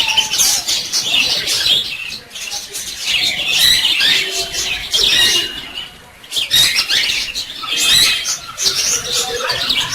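Small birds chirping and twittering in quick, overlapping high calls, with a brief lull about six seconds in.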